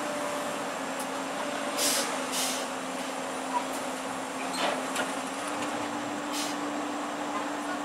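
Heavy diesel machinery running steadily, its pitch stepping up slightly about five and a half seconds in, with several short hisses of released air.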